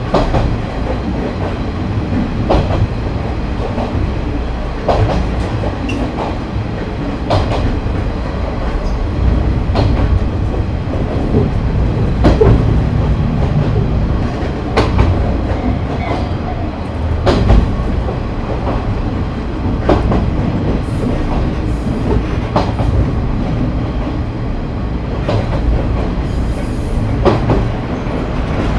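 KiHa 30 diesel railcar running along the line, heard from on board: a steady low rumble of engine and wheels, with a clack of the wheels over a rail joint about every two and a half seconds.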